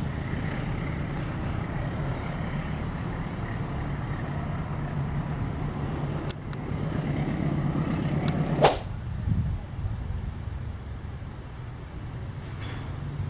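A steady low engine hum, broken about two-thirds of the way in by one sharp swishing crack, after which the hum drops away and comes back faintly near the end.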